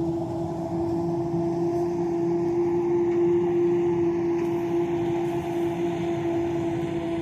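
Silage-harvest machinery running steadily, a constant drone with one strong even hum that holds its pitch.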